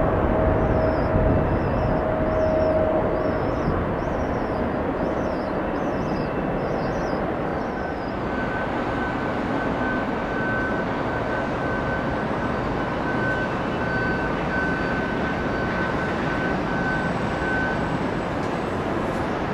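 Jet airliner engines giving a steady roar that eases a little over the first few seconds, with a thin high whine joining about eight seconds in.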